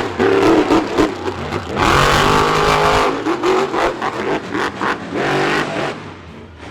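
Monster truck engines revving hard, the pitch climbing and dropping repeatedly with the throttle, with many short sharp pops. The sound eases off somewhat near the end.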